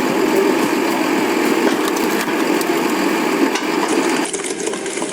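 Log splitter at work: steady machine running noise with wood cracking and splintering as logs are split. The sound changes abruptly about four seconds in.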